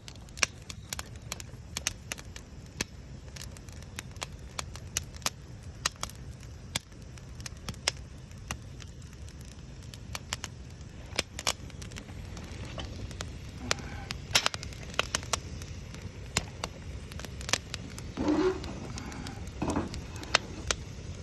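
Wood campfire crackling, with sharp pops and snaps at irregular intervals over a low steady rumble. Near the end there are two brief, louder mid-pitched sounds.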